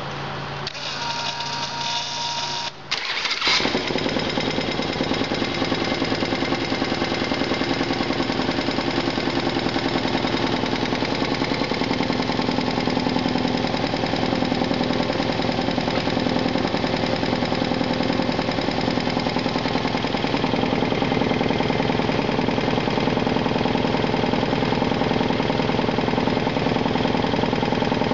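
Turbocharged, fuel-injected 1976 Harley-Davidson Shovelhead 96-cubic-inch V-twin at its first start: the starter cranks for about two seconds, and the engine catches about three seconds in. It then keeps running steadily in even firing pulses.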